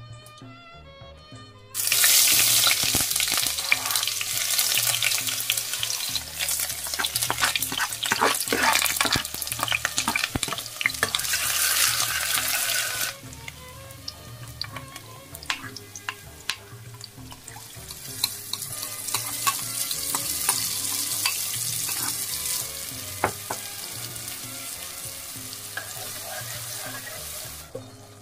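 Food sizzling in hot oil in a pot. A loud frying hiss starts suddenly about two seconds in as sliced shallots, garlic and whole spices hit the oil, with scattered knocks of a utensil stirring. After a sudden cut it goes quieter, then curry paste frying in the oil brings the hiss back up until it cuts off near the end.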